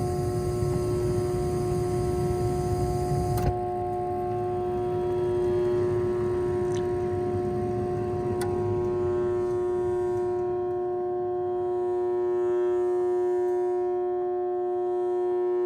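Carrier 58DLA070-12 furnace blower motor buzzing with a steady hum, stalled instead of spinning up. The replacement run capacitor tests good, so the capacitor is not the cause. A rushing noise under the hum stops with a click about three and a half seconds in, and the hum carries on.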